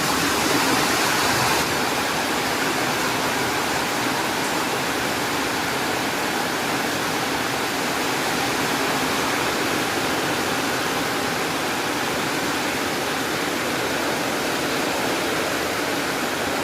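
Heavy typhoon rain pouring down hard, a steady dense hiss with no letup.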